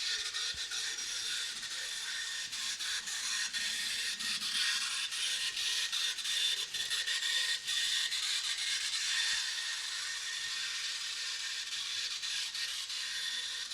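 Model train running on the layout: the steady whirring hiss of its small motor and wheels on the track, with frequent light clicks.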